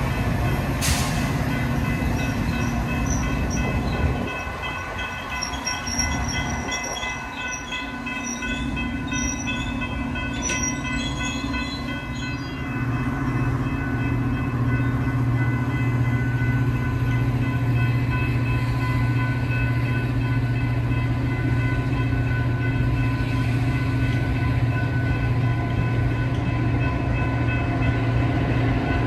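Metra bilevel commuter train cars rolling past along the platform: a steady rumble with several thin, steady high tones above it. A deep drone comes up about 13 seconds in and stays.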